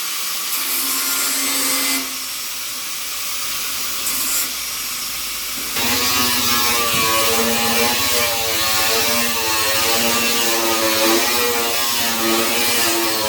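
Power tool running steadily, louder from about six seconds in, where its motor whine wavers in pitch as the tool works under load.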